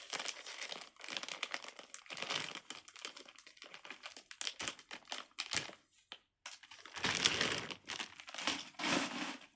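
Plastic crinkling and rustling in irregular bursts with small clicks, loudest about seven seconds in and again near the end.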